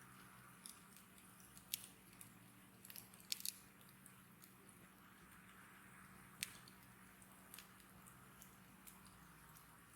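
Wood bonfire crackling: irregular sharp pops and snaps over a faint steady hiss, the loudest snaps coming about two seconds, three and a half seconds and six and a half seconds in.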